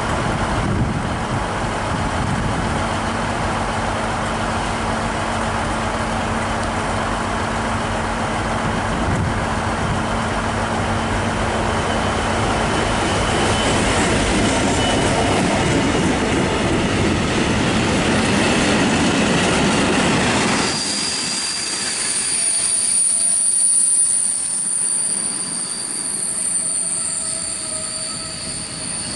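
An EWS Class 66 diesel-electric locomotive, its two-stroke V12 engine running, passes hauling a train of covered steel coil wagons. About two-thirds of the way in, the engine drone drops away and the wagons roll by with a steady high-pitched wheel squeal.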